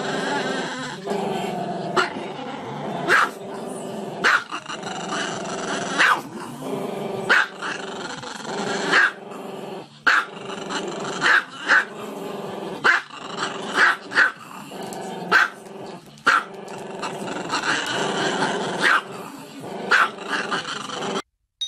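A small black-and-tan dog, head raised, keeps up a continuous growling vocalisation broken by sharp barks roughly once a second. It cuts off just before the end.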